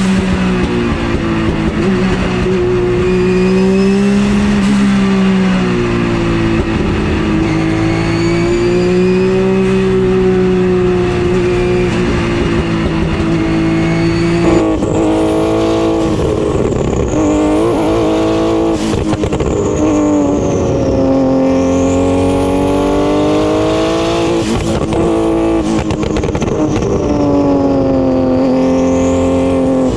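Porsche GT3 Cup race car engine running hard up a hill climb, its pitch rising and falling with throttle and gear changes. The sound changes abruptly about halfway through, to a different pitch pattern with a high whistle wavering above it.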